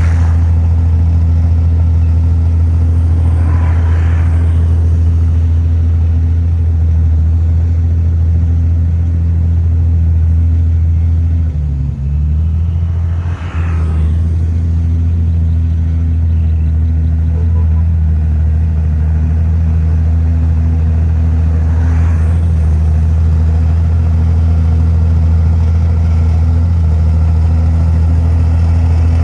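Komatsu bulldozer's diesel engine running steadily at a deep, even pitch, dipping briefly about twelve seconds in.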